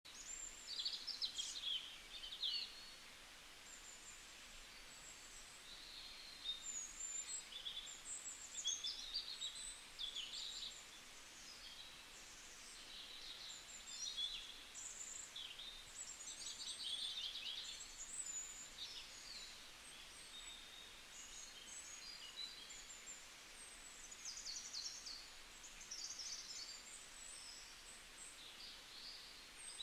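Small birds chirping and twittering: many short, high calls and quick trills overlapping throughout, over a faint steady hiss.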